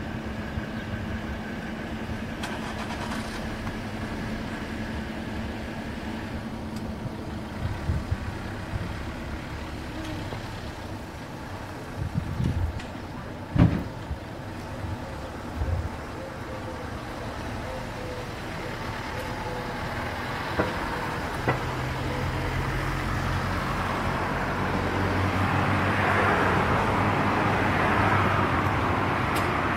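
Self-service car wash equipment running: a steady pump hum, with a few knocks midway and a spray hiss that builds and grows louder in the second half.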